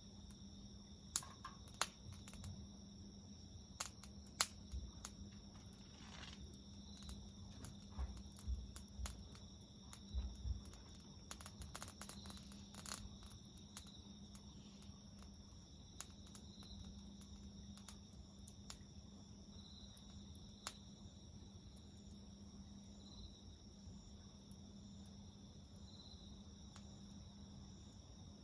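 Garden wood fire crackling with sharp pops and snaps, most of them in the first half, over insects singing steadily in a high, even trill. A low steady hum runs underneath.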